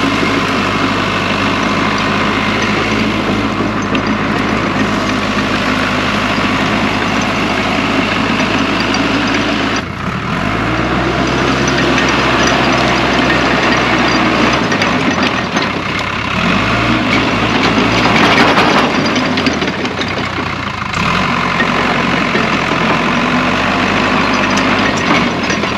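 Case 550G bulldozer's diesel engine running and working, its note shifting up and down several times as the load changes. About two-thirds of the way through there is a louder stretch of clattering.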